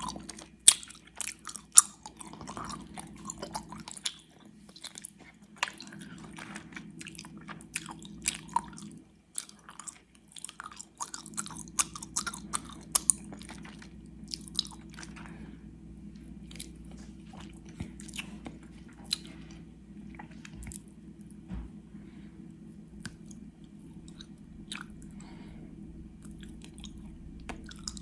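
Close-miked chewing of gummy worms: sticky, wet mouth clicks and smacks. The chewing is busy through roughly the first half and grows sparser later.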